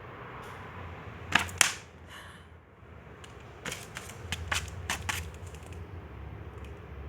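Sharp clicks and knocks: two loud ones about a second and a half in, then a quick run of lighter taps around four to five seconds in.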